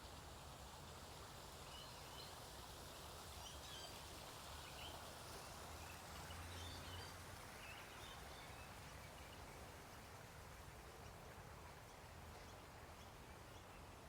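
Faint outdoor ambience with scattered short bird chirps in the first half, over a steady low background hum.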